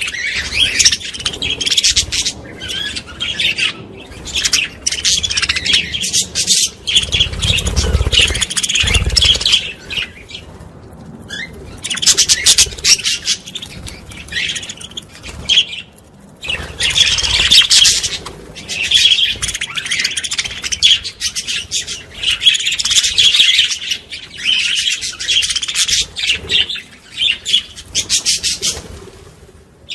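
A flock of budgerigars chattering and warbling, a dense run of fast chirps and rapid warbled phrases that breaks off briefly a couple of times. There is a low rumble about eight seconds in.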